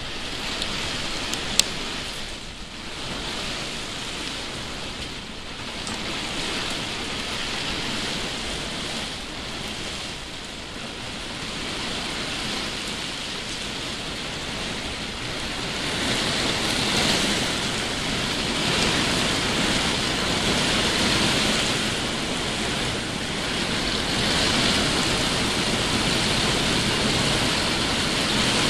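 Heavy thunderstorm downpour: a steady rush of rain that gets louder about halfway through. One sharp click about a second and a half in.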